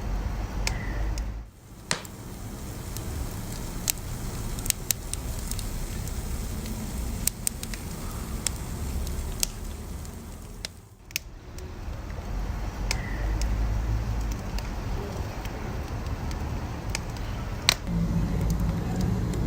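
Wood fire crackling, with irregular sharp pops and snaps over a low steady rumble of burning that dips briefly twice.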